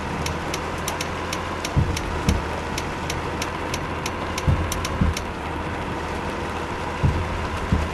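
Truck engine running steadily, with a pair of low thumps every two to three seconds and scattered sharp ticks over it.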